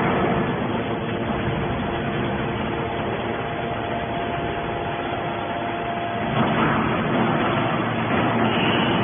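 Hydraulic scrap-metal baler running: steady machine noise with a faint hum, which gets louder and changes in pitch about six seconds in.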